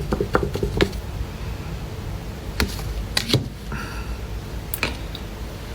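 A few light, scattered clicks and taps over a low steady hum: a cluster in the first second, then single taps about two and a half, three, and almost five seconds in.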